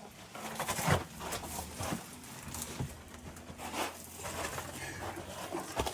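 Irregular scuffs and knocks of someone climbing down through a narrow rock passage, shoes and hands scraping on the boulders, about one knock a second.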